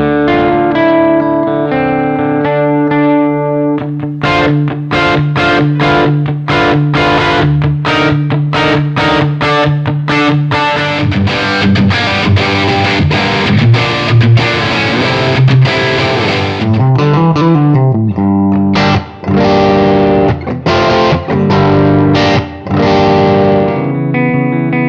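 Electric guitar, a Gibson Les Paul with PAF-style humbucker pickups, played through an amp with overdrive. It opens with ringing chords, moves into rhythmic picked strokes, then heavier distorted playing, and has a string bend about two-thirds of the way through.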